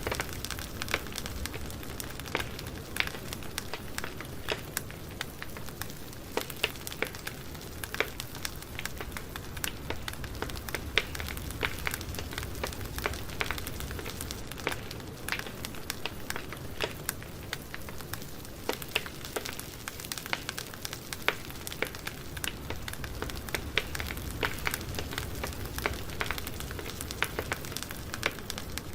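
Campfire burning, the wood crackling and popping in many irregular sharp snaps over a steady hiss and low rumble of the flames.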